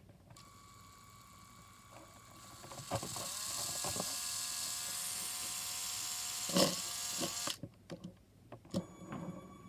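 Lego Power Functions train motor, wheels removed, whirring with a high whine. It speeds up and gets louder about three seconds in, knocks once near the end, then cuts off suddenly.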